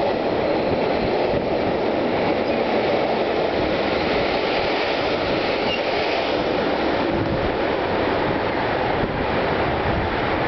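Long freight train of covered boxcars rolling past at speed: a steady rumble of wagon wheels on the rails.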